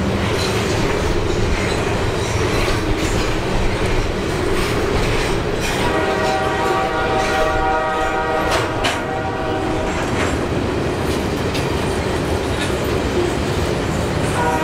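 Freight train on the move behind GE diesel locomotives: a steady low rumble of engines and wheels on rail, with wheel clicks over rail joints. A multi-note locomotive horn sounds about six seconds in and holds for about three and a half seconds.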